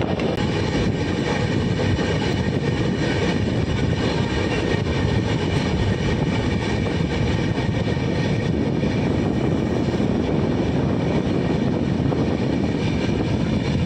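Passenger express train running at speed, heard from an open coach door or window: a steady rumble of wheels on rails with rushing air, and a faint steady whine above it.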